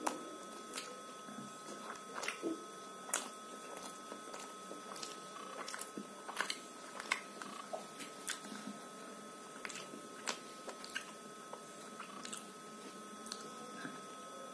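Close-miked chewing of soft, syrup-soaked gulab jamun: irregular wet squishes and sharp mouth clicks with the mouth closed, over a faint steady tone.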